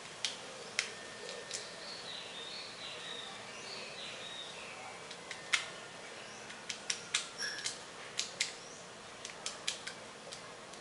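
Woodpecker pecking into a termite or ant nest as it feeds: sharp, irregular taps, a few spaced out and then a quicker run in the second half. Faint chirping from other birds or insects sits behind.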